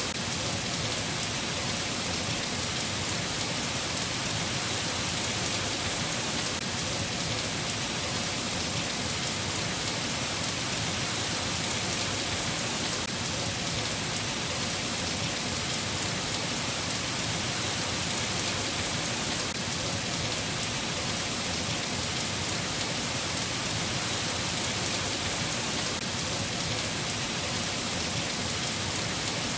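Steady rain falling, an even unbroken hiss of drops on a surface.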